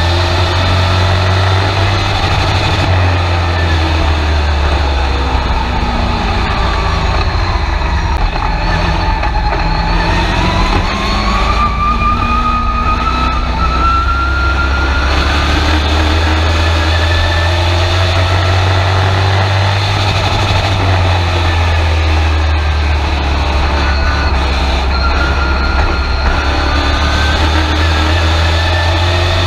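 Race truck engine heard from inside the cab, running hard under load, its pitch slowly falling and rising again in long sweeps as the truck laps the track, over a heavy, steady low rumble.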